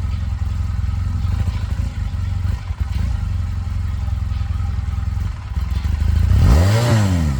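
Honda Rebel motorcycle engine idling steadily, then revved once near the end, the pitch rising and falling back toward idle.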